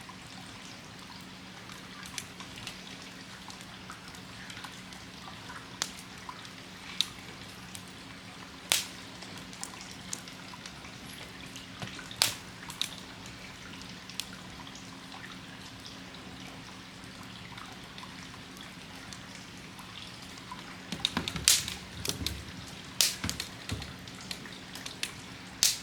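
Wood campfire crackling, with scattered sharp pops a few seconds apart and a quicker run of pops about three quarters of the way through, over a faint steady low hum.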